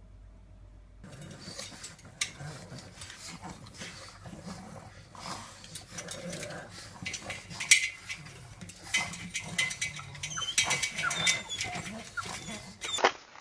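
A dog making noise, with many sharp clicks and knocks throughout and a few short squeaky sounds.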